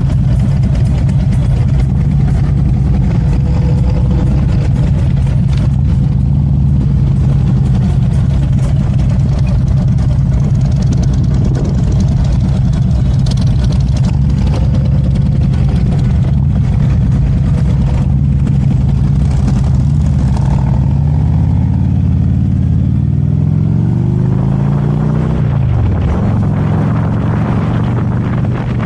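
Motorcycle engine running steadily at low riding speed. Near the end its pitch climbs for a few seconds, then drops away sharply.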